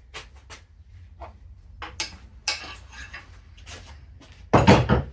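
Tools and parts being handled on a workshop bench: a string of light knocks and clicks, with one louder clattering knock about four and a half seconds in.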